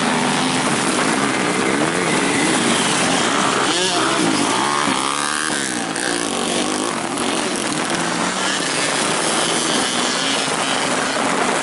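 Several grasstrack racing motorcycles running and revving around a dirt track, engine pitches rising and falling as the bikes accelerate and pass, over a steady hiss; the busiest stretch comes about four to seven seconds in.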